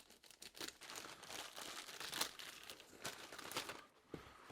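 A shipping package being sliced open and its wrapping pulled apart: a run of faint, irregular crinkling and rustling that dies down near the end.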